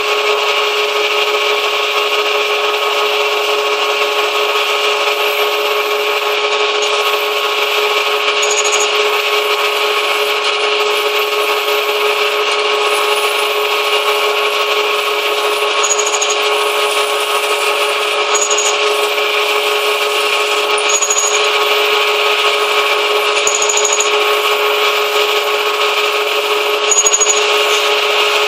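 Manual metal lathe running steadily with a constant whine of several tones over a hiss, and a brief high chirp every few seconds.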